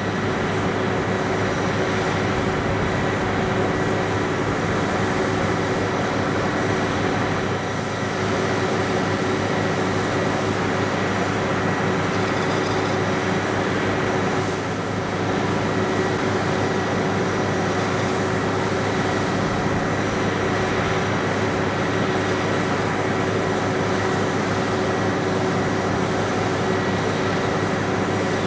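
Steady mechanical drone of a ground power unit on the flight line, with a few constant tones over a hum.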